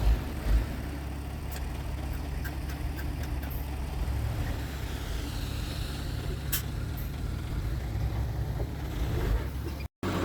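Heavy diesel engine of earthmoving machinery running steadily at a low rumble, with a few low thumps in the first second. The sound cuts out briefly near the end.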